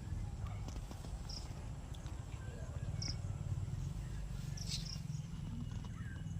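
Outdoor garden ambience: a steady low rumble with three short high chirps, one every second and a half or so.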